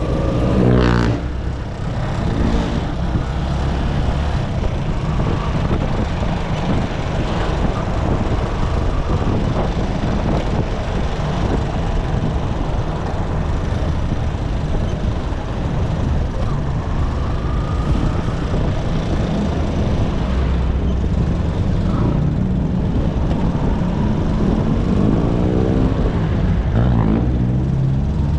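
Motorcycle engine running on the move, with steady road noise. The engine pitch climbs and drops briefly about a second in and again near the end.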